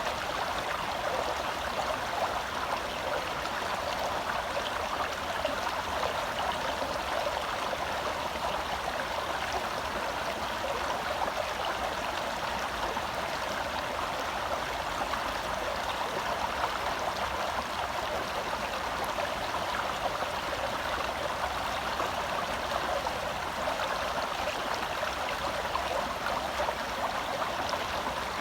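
Shallow forest stream flowing and burbling over rocks, a steady rush of water without pause.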